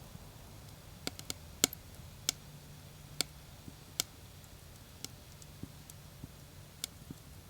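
Wood fire crackling: sharp, irregular pops and snaps, about a dozen spread unevenly over a few seconds, above a low, steady background.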